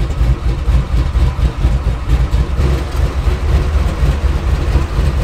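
V8 engine of an LS-swapped Chevy truck running with an uneven, pulsing low rumble.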